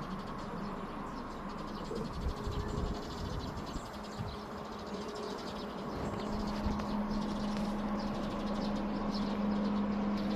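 Small birds chirping faintly over a steady low hum that grows stronger about halfway through, with a few low rumbles early on.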